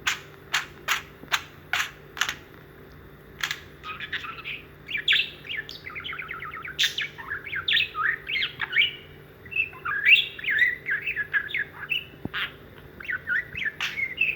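Budgerigar warbling and chattering, a fast, continuous stream of chirps and squeaks. It opens with a run of short sharp clicks, about two a second.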